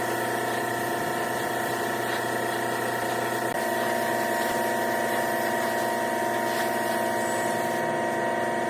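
Steady hum of a workshop machine's electric motor, running at an even speed with several fixed tones.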